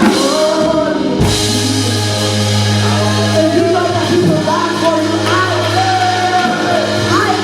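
Worship song: a singer's melody over a band with drums and a long-held low bass note that comes in about a second in.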